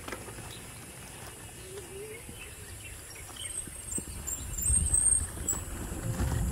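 Outdoor ambience with birds chirping in short, high calls. A low rumble swells about four to five seconds in.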